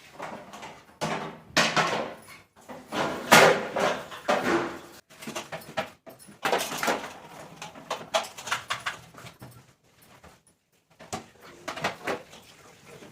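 Fridge shelves and trays being handled and washed: irregular knocking, scraping and clattering of plastic and glass, in uneven bursts.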